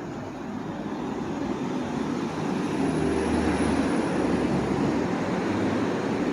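Rumble of a passing engine swelling up over about two seconds and then holding, above the hum of the street.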